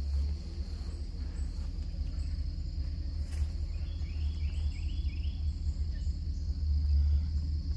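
Crickets trilling steadily over the low rumble of idling car engines. A single click comes about three seconds in, and a quick run of four short rising chirps follows about a second later.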